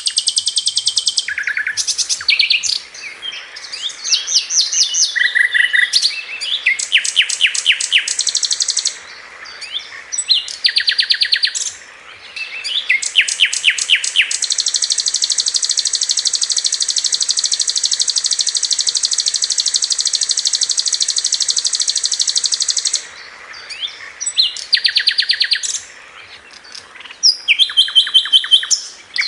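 Sikatan londo (a flycatcher) singing in rapid-fire trills of quickly repeated high notes, the 'tembakan' bursts prized in masteran song, with one long unbroken trill of about eight seconds in the middle.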